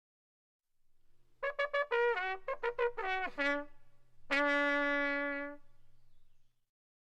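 A brass sound-effect sting: a run of short notes stepping down in pitch, each sliding downward, then one long low held note, the sad "fail" kind of jingle.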